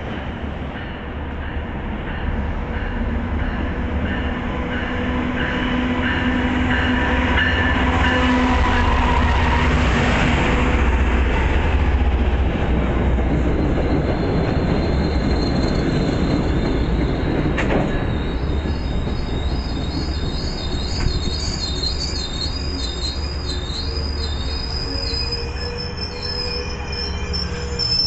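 MBTA Commuter Rail train rolling through the station with a heavy low rumble. High, wavering steel-wheel squeal builds through the second half.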